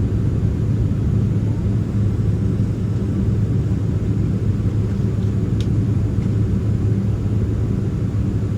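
Steady low rumble and hum inside the cabin of a Boeing 767-300ER on the ground after landing, its jet engines idling. There is one faint click about five and a half seconds in.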